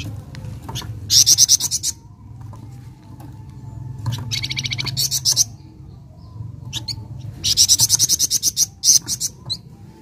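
Flamboyan songbird singing: three bursts of fast, evenly repeated high notes, each lasting one to two seconds. A low steady hum runs underneath.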